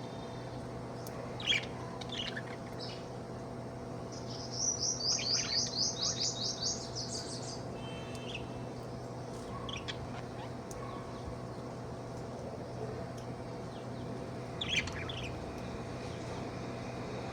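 Budgerigar chirping: a few short high chirps, then a fast run of repeated chirps lasting about three seconds, and a couple more chirps near the end. A steady low hum runs underneath.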